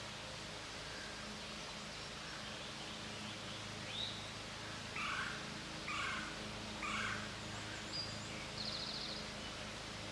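Woodland ambience with a steady low hum and hiss. Birds call over it: a high note, then three short, similar calls about a second apart, and a brief buzzy trill near the end.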